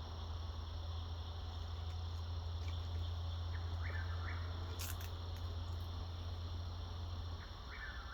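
An unidentified bird gives a short call twice, about four seconds apart, over a steady high-pitched insect drone and a low hum that drops away shortly before the second call.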